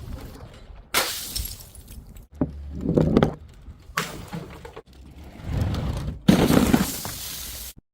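Glass bottles breaking: about five separate sudden smashes in a row, each with a short crackling tail of falling shards.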